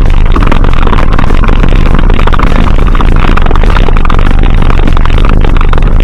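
Loud, steady, overdriven rumbling noise with some clatter.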